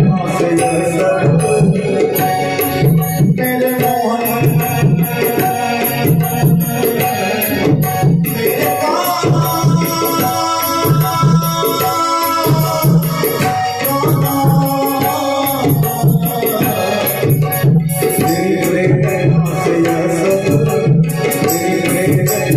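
Instrumental interlude of a Hindi devotional bhajan: tabla and octapad keep a steady beat with shaker-like percussion. A sustained melody line enters about a third of the way in and fades out past the middle.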